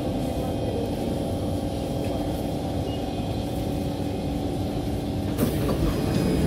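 Steady hum of an SMRT C151 train's onboard equipment as it stands at the platform, then near the end a sudden hiss and rattle as the passenger doors begin to slide open.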